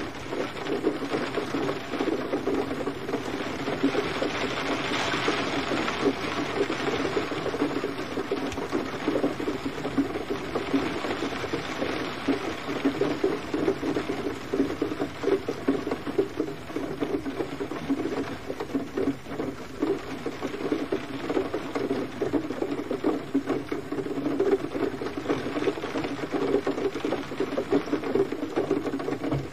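Gentle rain falling steadily, a dense continuous patter of drops.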